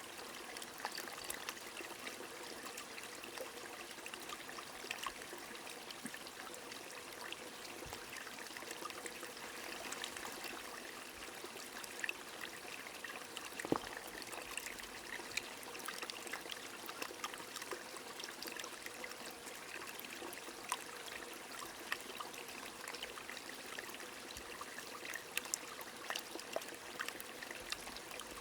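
Steady rain falling, with a stream trickling and many small irregular droplet ticks, one a little sharper about halfway through.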